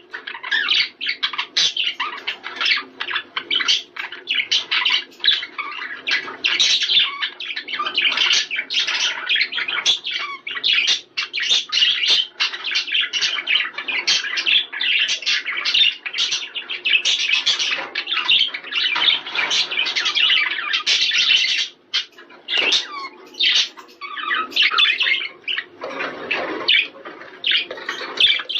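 Budgerigars chattering: a dense, continuous run of short chirps, warbles and squawks, with a brief lull a little past the middle. This is the kind of chatter played to budgies to stimulate breeding.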